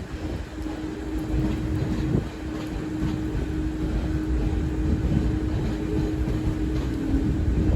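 Taiwan Railways train at the station, a steady hum over a constant low rumble.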